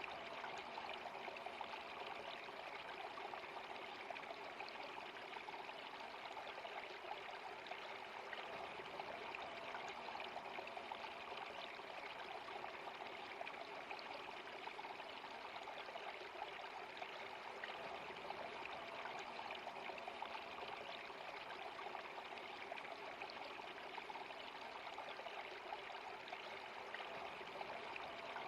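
A stream of water running steadily, an even, unbroken rush of water.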